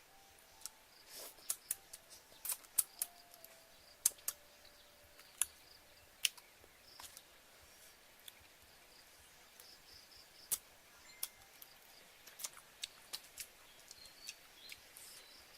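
Irregular sharp clicks and snaps, a dozen or more, spread unevenly over a faint background hiss.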